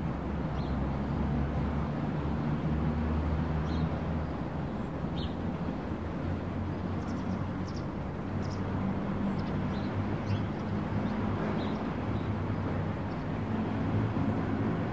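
A car engine running steadily at idle, with a few short high chirps scattered over it.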